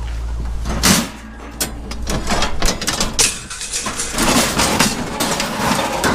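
A vehicle engine idling with a steady low hum that cuts off about a second in, followed by a string of irregular knocks and clanks of metal and doors.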